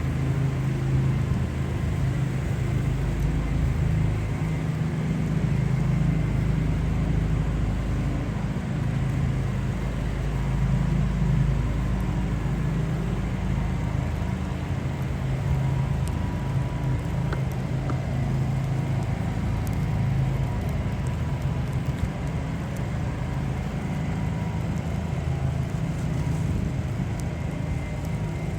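Downtown street traffic: a vehicle engine running close by with a steady low hum, over general city noise.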